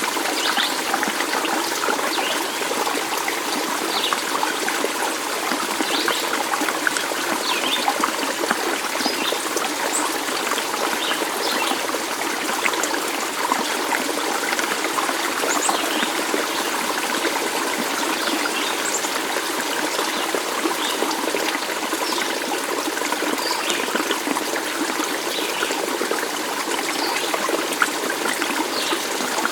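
A stream of water running steadily: a continuous rush with many brief high-pitched trickling notes scattered through it.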